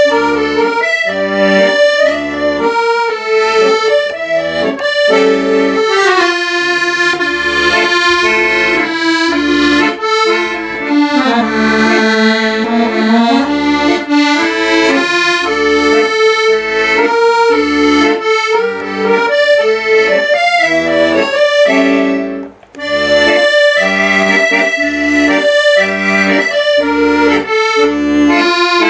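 Accordion music: held chords and a melody over a steady pulsing bass beat, with a brief break about three-quarters of the way through.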